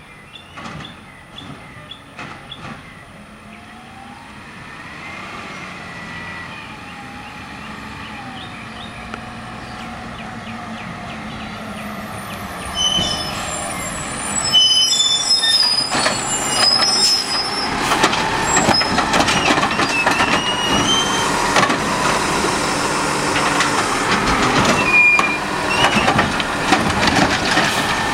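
Scorpion automated side-loader garbage truck on a Peterbilt cab working close by: engine and hydraulics running, growing louder, with a gliding whine early on. About halfway through it gets much louder, with repeated clanks and clatter and high metallic squeals.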